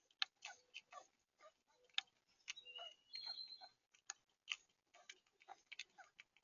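Faint, irregular ticks and taps of birds at a seed feeder, with a short high chirp about three seconds in.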